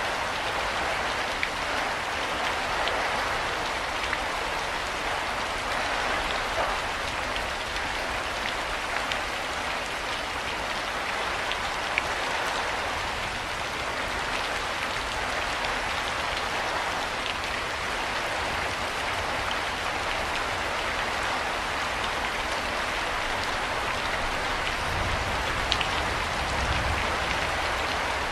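Steady rain falling, an even hiss with an occasional louder single drop ticking.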